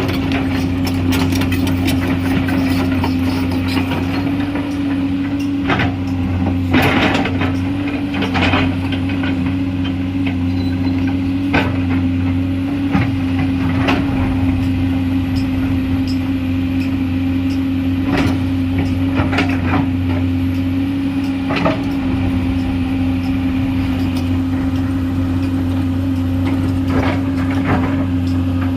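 Komatsu PC210 excavator's diesel engine running steadily with a constant hum, broken by irregular knocks and scrapes as the machine cuts into the hillside.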